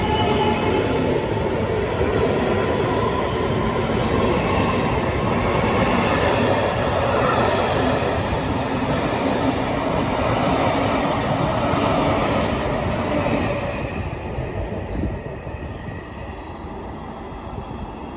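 Electric passenger train passing alongside the platform, with loud rolling noise from wheels on rails. A whine that falls slightly in pitch at first runs over it. The noise fades away from about fourteen seconds in.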